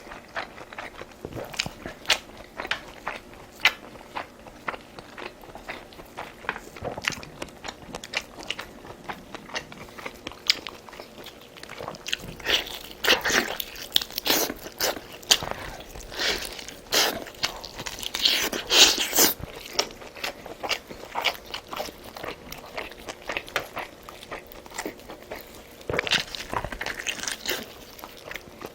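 Close-miked eating: biting and chewing with irregular crunchy clicks and wet smacks, busiest in the middle and loudest about two-thirds of the way through.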